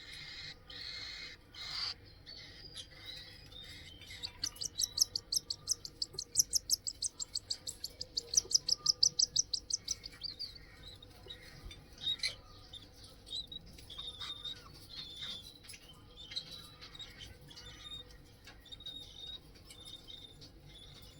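Cockatiels chirping: a fast, even run of high-pitched chirps, about five a second for some six seconds, followed by scattered shorter calls.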